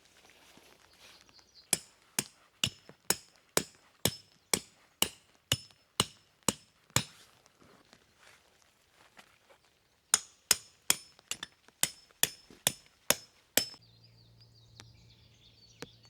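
Hammer blows in two runs of steady strikes, about two a second, each with a bright metallic ring.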